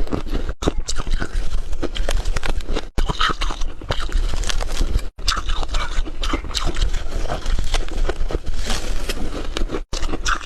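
Hard, refrozen ice being bitten and chewed close to the microphone: a dense run of sharp cracks and crunches, broken a few times by abrupt, very short silences.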